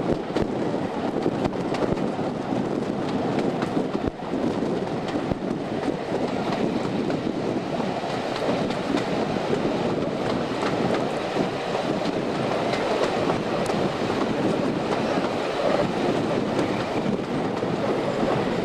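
Passenger train running along the line, heard from an open carriage window: a steady rumble of wheels on rail with scattered clicks.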